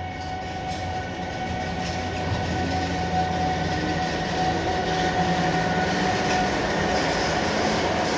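Newag Griffin EU160 electric locomotive running through with a train of Intercity coaches: a steady rolling rumble of wheels on rail with a steady whine over it, growing louder over the first few seconds as the train comes by.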